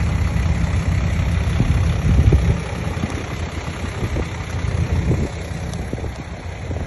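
Komatsu D20P bulldozer's diesel engine running, loudest about two seconds in and then easing off a little.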